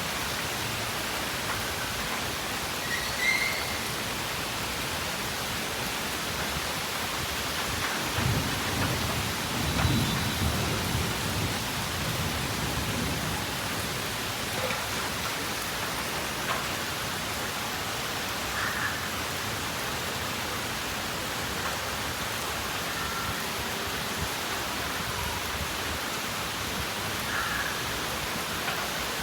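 Steady rain falling, with a low rumble of thunder swelling about eight to eleven seconds in. A few brief high chirps sound now and then.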